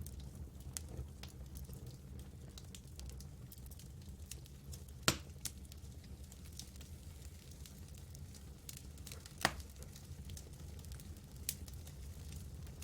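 Campfire burning with a steady low rumble and scattered light crackling, and two sharper pops about five and nine seconds in.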